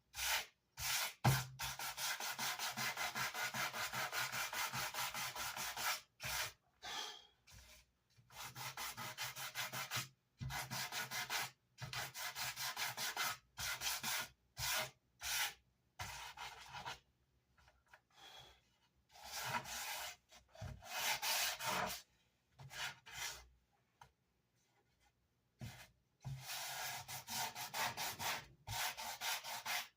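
Hand sanding the edges of a wooden speaker baffle: quick back-and-forth strokes of sandpaper on wood, about four or five a second, in runs broken by short pauses.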